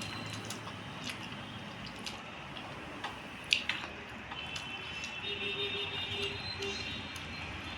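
Eating by hand: soft squishing of rice and curry being mixed and chewed, with small clicks and one sharper click about three and a half seconds in. A faint tone sounds in the background about five seconds in, for under two seconds.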